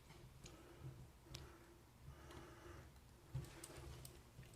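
Near silence broken by a few faint, separate clicks and taps: small faucet seats and springs being pressed into the valve body with a screwdriver tip.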